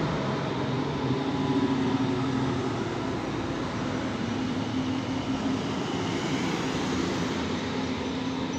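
A train running past with a steady rumble and a low hum, easing off slightly.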